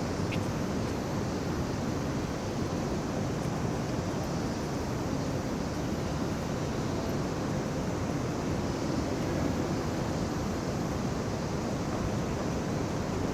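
Steady rushing background noise with no distinct events, the kind of sound street traffic or wind on the microphone makes.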